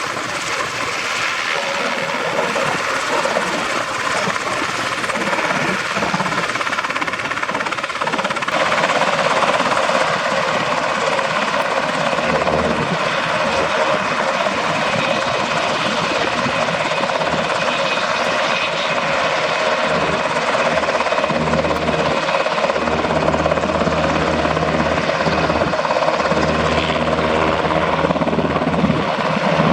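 UH-60 Black Hawk helicopter running loud and steady, its two turboshaft engines and main rotor together. The sound grows fuller about eight or nine seconds in, and a low steady hum joins a few seconds later.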